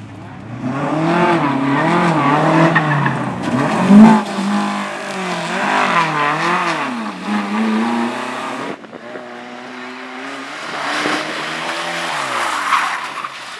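Racing car engine revving up and down over and over as it is driven hard, with a hiss of tyre noise until about nine seconds in and a loud peak about four seconds in. The revs fall away in a sliding tone near the end.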